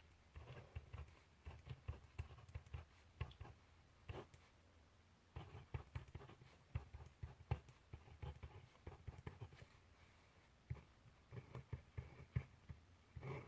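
Faint handwriting on paper: bursts of short scratchy strokes separated by pauses, with a few sharp taps.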